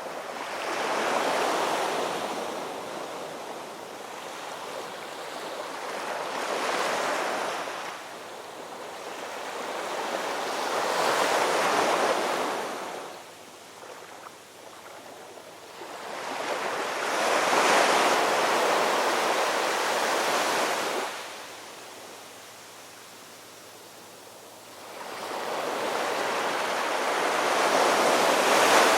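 Ocean waves breaking and washing in, about five slow surges that each swell and fade over a few seconds, with quieter lulls between.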